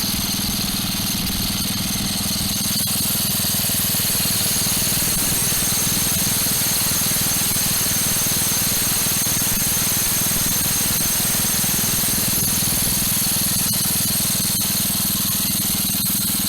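A small engine running steadily at a constant speed, without letting up.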